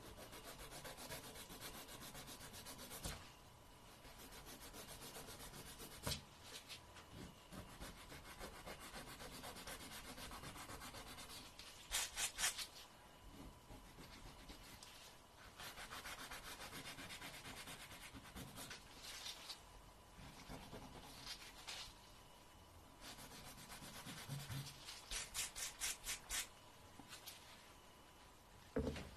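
Fingernails being filed: long scratchy rubbing strokes, with bursts of quick back-and-forth strokes about twelve seconds in and again near the end.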